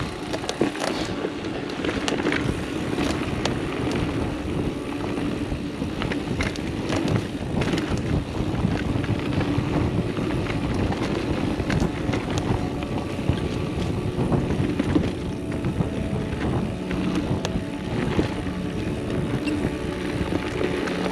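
Mountain bike riding down rough singletrack: wind on the microphone and tyres rolling over dirt, with frequent clicks and rattles from the bike over the bumps.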